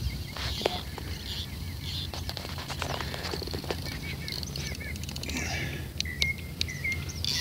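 Small birds chirping repeatedly in short curling notes, over scattered sharp clicks and a steady low rumble.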